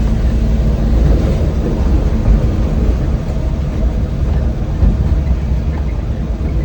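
Old van driving along: a steady, loud low rumble of engine and road noise.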